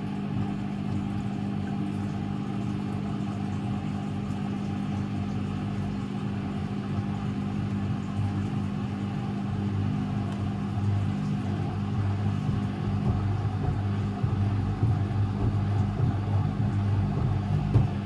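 Constructa Energy 1000s washing machine running, with a steady motor hum. It grows louder and rougher in the second half.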